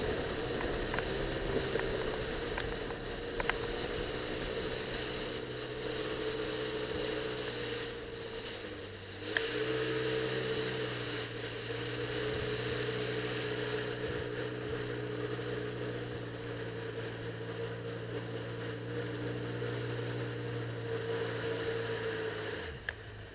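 Jet ski engine running at a steady speed, easing off briefly and picking up again about nine seconds in, then winding down and stopping near the end.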